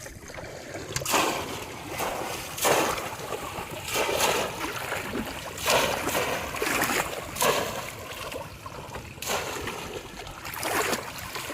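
Repeated splashes in shallow river water, one every second or so, over a steady watery hiss.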